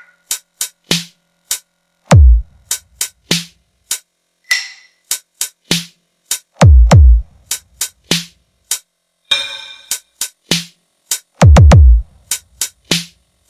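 Electronic drum-machine beat: quick sharp clicks and light hits, with three very loud, deep booming bass drops that slide down in pitch, spaced about four and a half seconds apart.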